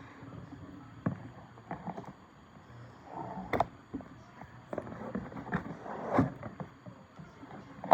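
Handling of a perfume box and its packaging: irregular taps, clicks and rustles, with a few sharper knocks spaced a couple of seconds apart.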